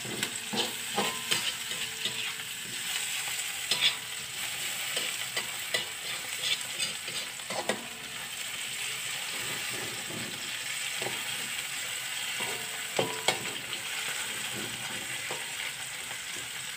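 Sliced garlic, shallots, chillies and tomato sizzling steadily in hot oil in an aluminium wok, with a metal spatula scraping and tapping against the pan now and then as the spice base is sautéed.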